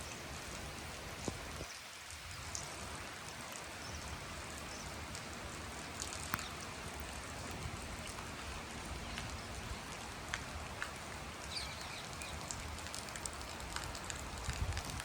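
Steady rain falling, a dense hiss with scattered individual drops ticking sharply on nearby surfaces.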